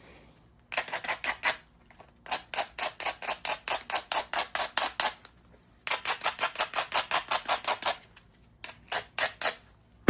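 Stone-on-stone working of a flintknapped piece: quick, sharp, ringing strokes at about eight a second, in three long runs and a short one near the end, as the edge is prepared by rubbing or light tapping.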